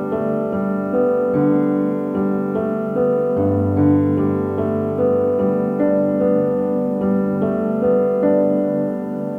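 Calm background piano music: gentle arpeggiated notes over slow-changing bass notes.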